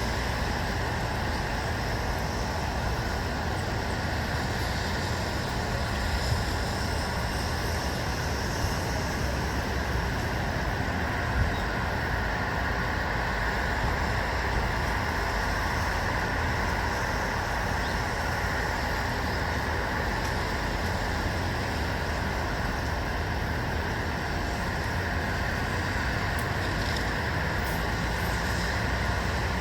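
Steady, even hum of distant road traffic, with no single vehicle standing out.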